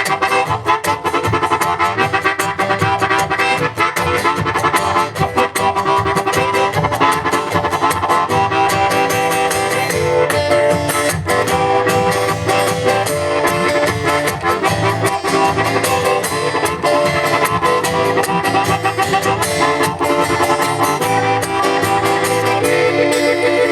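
Live band playing an instrumental break with a steady beat; a harmonica leads over guitar.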